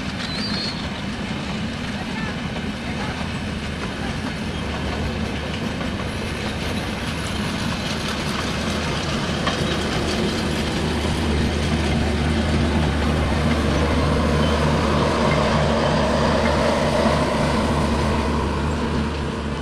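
Passenger coaches of an intercity train rolling past on the track: a steady rumble of wheels on rails. It grows louder through the second half and starts to fade near the end as the last coach goes by.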